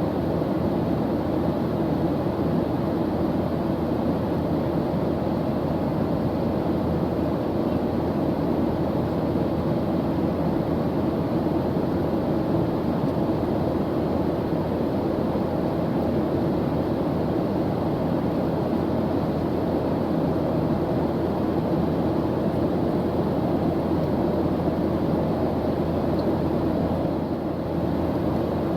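Airplane engine drone: a steady, low rushing noise that holds even without a break or change.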